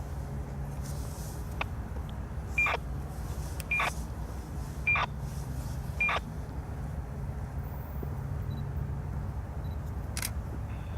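Four short high beeps, about a second apart, over a steady low rumble.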